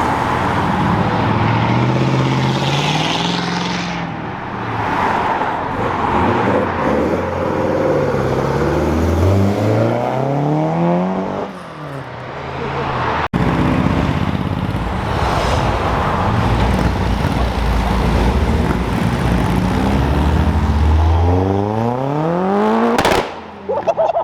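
Cars accelerating hard away one after another, engine notes climbing in pitch over and over as they rev up through the gears and pass by.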